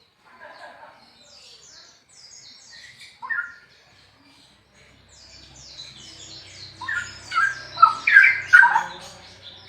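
Straw-headed bulbul singing: quick, high, falling chirps at first, then loud, rich, liquid warbling phrases bending up and down in pitch near the end, the loudest part.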